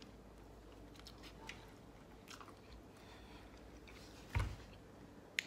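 A person biting into and chewing a mouthful of meatball sub, with faint soft crunches of the bread roll. A dull thump comes about four seconds in.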